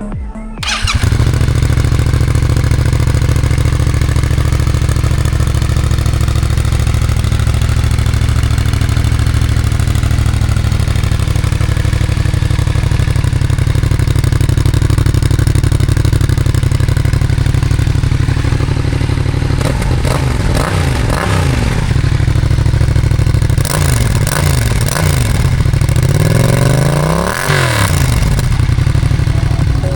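Yamaha MT-07 parallel-twin engine through a RoadsItalia Thunder titanium exhaust, idling steadily from about a second in. In the last ten seconds it is revved in several blips, the biggest near the end.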